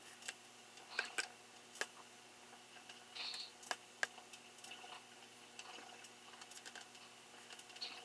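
Faint, irregular small clicks and ticks of hands working a fuel filter's oversized barb into a chainsaw's fuel line, with a brief scrape a little past three seconds in.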